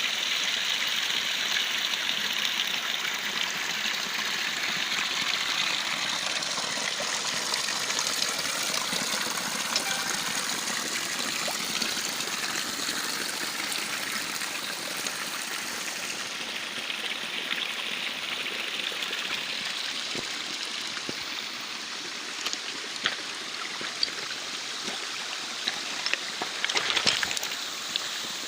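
Small waterfall splashing and rushing steadily, with a few short clicks near the end.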